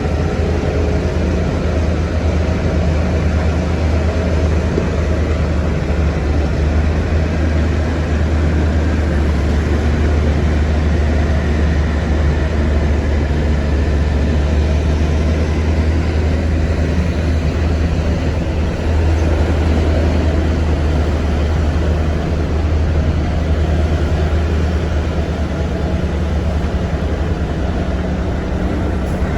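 Heavy road-construction machinery engine running steadily with a deep, continuous drone.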